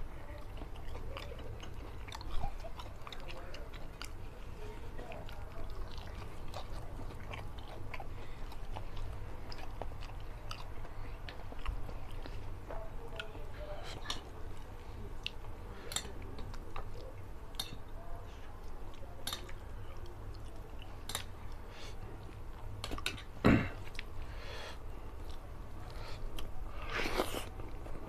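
A person chewing and eating rice and curried fish head by hand, with many small wet mouth clicks and smacks. One louder, sharper crunch comes near the end.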